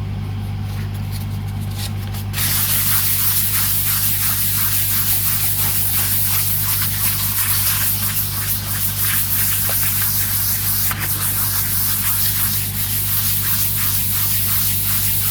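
Steady hiss of a compressed-air spray starting about two seconds in, over a low steady hum.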